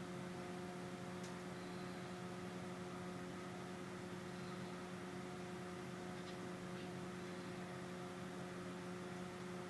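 A steady electrical hum with a few faint ticks.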